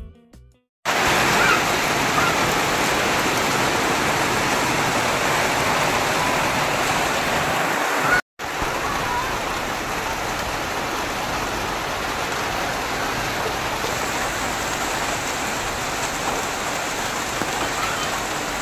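Rain falling steadily, a dense even hiss that starts about a second in and briefly cuts out about eight seconds in.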